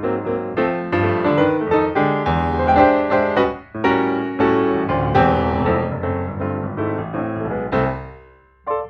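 Background piano music: a run of struck notes that dies away near the end, followed by a single separate note.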